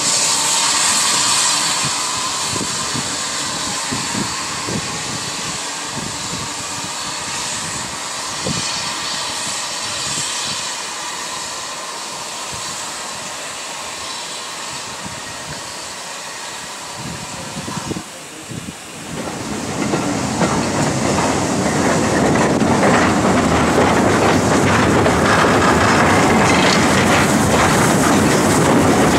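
Steam-hauled train running on the rails, wheels clicking over the rail joints with a steady hiss. About two-thirds through the sound dips briefly, then returns louder with a faster, denser wheel clatter.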